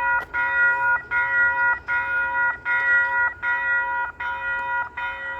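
Rail crossing warning bell ringing in a steady repeating pulse, a little faster than once a second. It is going off with no train in view, which the railfan puts down to the new crossing going off randomly.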